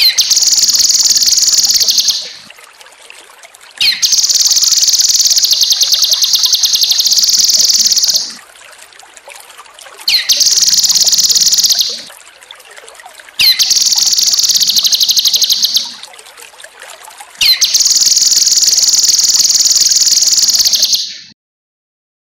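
Cucak kinoi songbird singing five loud bursts of song. Each opens with a quick upward sweep into a fast, dense, high trill lasting two to four seconds. Faint water trickles in the pauses between bursts.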